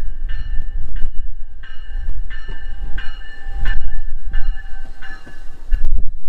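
Train running with a rumble, while a high pitched tone sounds again and again in short blasts of about half a second each. Wind buffets the microphone.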